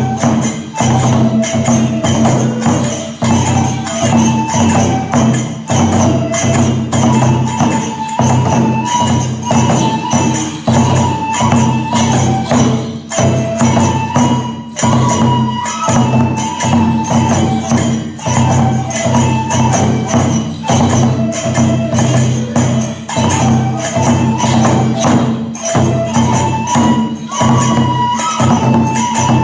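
Kagura accompaniment: a fast, steady rhythm of drum beats and clashing small hand cymbals under a bamboo flute playing long held notes.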